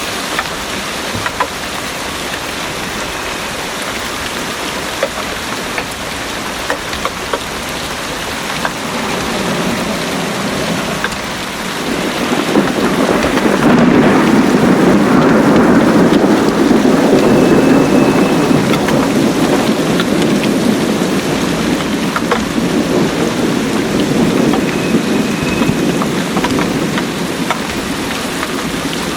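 Heavy rain falling steadily, with scattered drips. About twelve seconds in, a long roll of thunder swells up, is loudest a few seconds later, then slowly fades.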